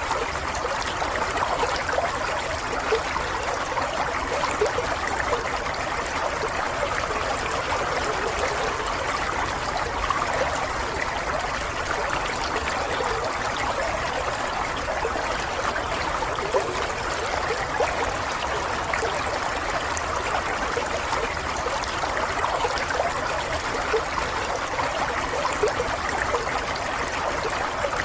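Water running and trickling, like a small stream over stones, in a steady, unbroken flow with a light bubbling texture.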